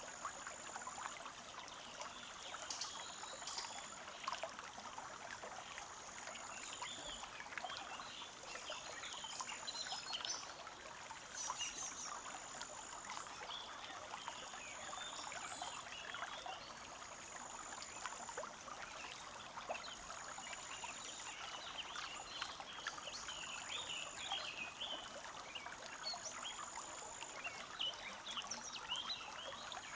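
Forest stream trickling and burbling steadily over stones. Over it, a high thin note about a second long repeats roughly every two seconds.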